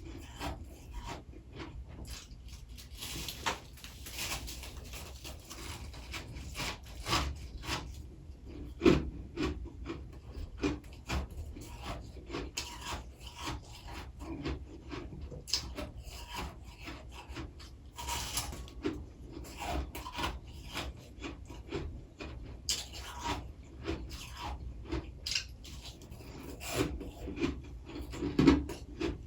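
Close-up rasping and crunching of soft freezer frost, grown with a humidifier, as it is scraped loose and chewed, in a dense, uneven run of short crackles with a few louder crunches.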